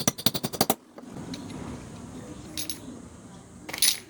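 Metal hand tools clicking and clinking: a quick run of about ten sharp clicks right at the start, then quieter handling and a short clatter near the end.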